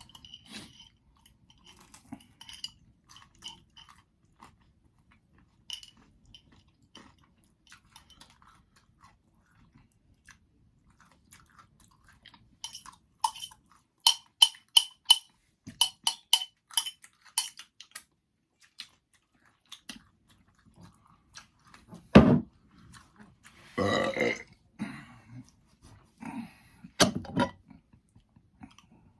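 Pizza being chewed close to the microphone: wet mouth clicks, then a run of sharp, quick crunches in the middle, and a few louder, fuller mouth noises near the end.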